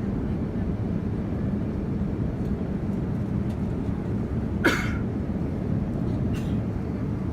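Steady cabin noise of a Boeing 787-9 airliner in flight: a low rumble of engines and rushing air. About four and a half seconds in there is one short, sharp sound, and a fainter one follows about two seconds later.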